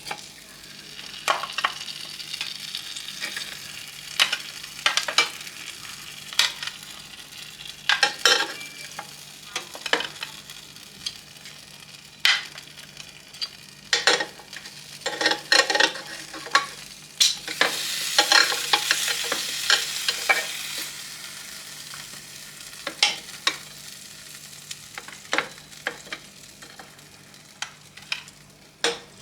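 Utensils clicking and scraping against a plate and pan while cooked barbecue beef ribs are plated, over a sizzling hiss that swells for a few seconds past the middle. A faint steady hum runs underneath.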